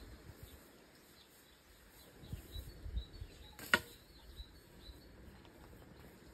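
Birds chirping faintly, with a few dull low thuds and one sharp knock a little past the middle.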